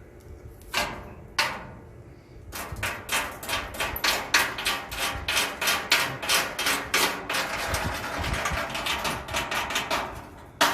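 Electric arc welder running a seam on steel angle iron: the arc crackles and spits, starting with a couple of short strikes, then settling about two seconds in into a fast, rhythmic crackle of three to four pulses a second, with a stretch of steady sizzle near the end.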